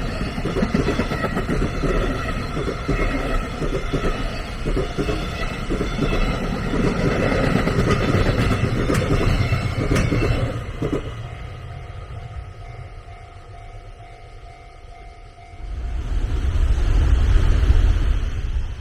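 A train passing close by, loud for about the first ten seconds and then dying away to a faint steady tone. A second loud rush of noise rises about three seconds before the end.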